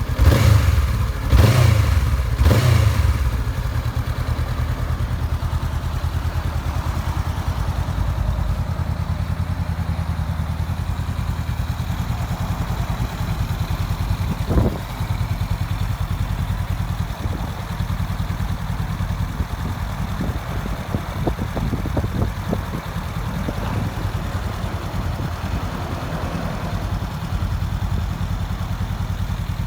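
Honda CB500X's parallel-twin engine running through an aftermarket Fuel carbon exhaust. It is revved three times in quick succession, then idles steadily, with one more brief rise about halfway through.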